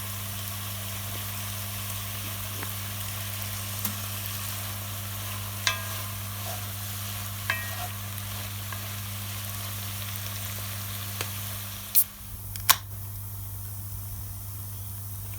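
Wood fire burning with a steady hiss and scattered crackling pops. Two sharp, loud cracks come about twelve seconds in, after which the hiss is quieter. A steady low hum runs underneath.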